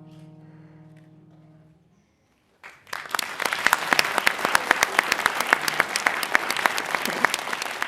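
A final piano chord rings and fades away, then after a brief silence an audience bursts into applause, many hands clapping densely.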